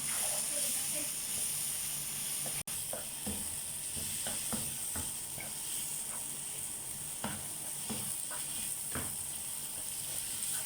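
Sliced sausages with onion, tomato, green peas and masala sizzling in oil in a pan while being stirred, a steady hiss with scattered short knocks and scrapes of the spoon.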